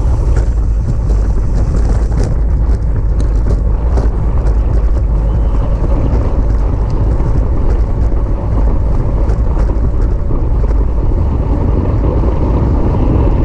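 Loud, steady wind rush and rumble buffeting the microphone of a camera on a bicycle racing at speed, with a few faint ticks a couple of seconds in.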